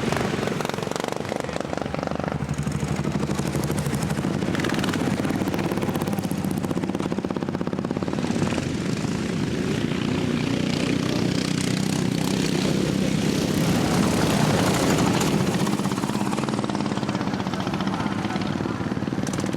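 Racing lawnmower engines running at speed, a steady buzzing engine note with its pitch drifting as the machines go round.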